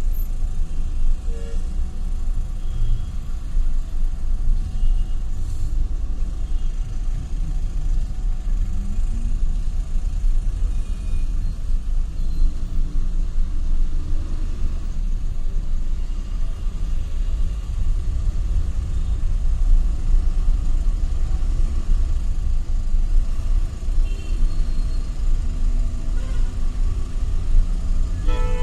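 Road traffic running past, a steady low rumble of engines and tyres, with faint horn toots now and then.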